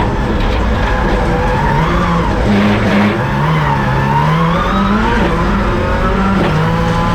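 Subaru WRX rallycross car's turbocharged flat-four engine running hard at speed, the revs falling about three seconds in and climbing again, with tyre and loose-surface noise from driving on dirt.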